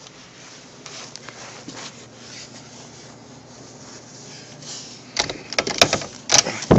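Faint rustling and handling, then about five seconds in a door opens and blizzard wind blasts onto the microphone in loud, gusting bursts.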